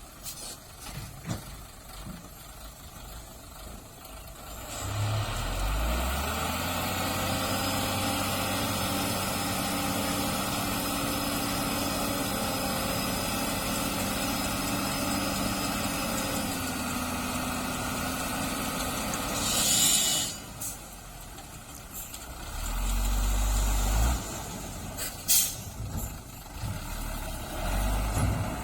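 Heavy truck engine picking up about five seconds in and running steadily, easing off after about twelve seconds, then a short hiss of air brakes. Low rumbles and a few sharp knocks follow.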